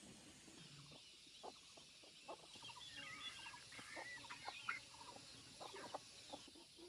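Chickens clucking faintly, a scatter of short calls with a cluster of higher, wavering calls in the middle.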